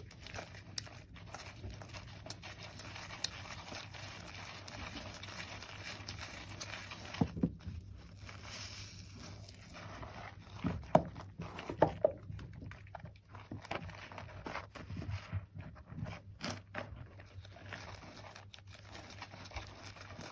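Hands lathering a soaked, mushy bar of soap and working the foam: soft, irregular wet squishing and crackling, with a few louder squelches scattered through.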